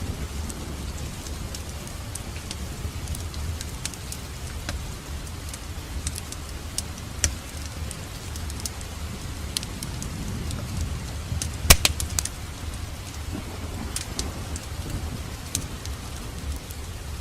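Fireplace fire crackling over a low, steady rumble of flames, with scattered sharp pops and a brief cluster of loud pops about twelve seconds in.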